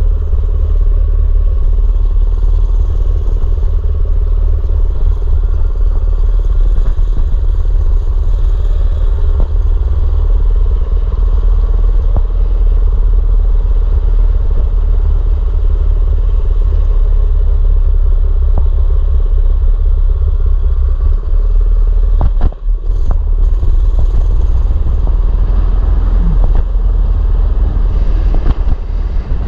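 Gas mini bike engine running steadily while riding, with heavy wind rumble on the microphone. There is a brief drop in level about three-quarters of the way through.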